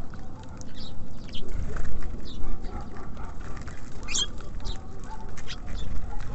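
Small birds at a feeder: a run of short pecking and scrabbling taps, with a brief high chirp about four seconds in, over a steady low rumble.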